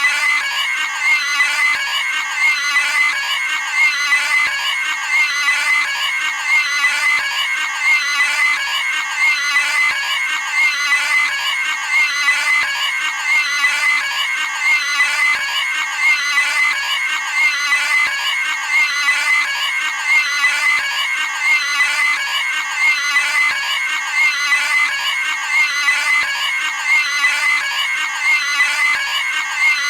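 A cartoon pig's high-pitched scream, the same squealing sound effect looped over and over at a steady pace, about once every second or so.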